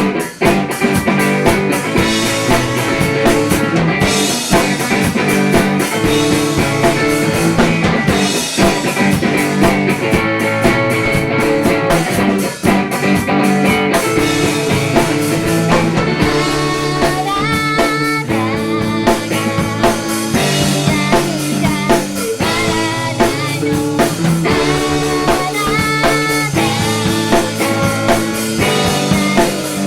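An indie-pop band playing live, with electric guitar and a drum kit. A female singing voice comes in about halfway through.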